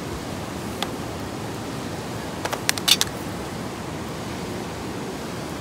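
A quick run of five or six sharp clicks or taps about halfway through, over a steady rushing background noise.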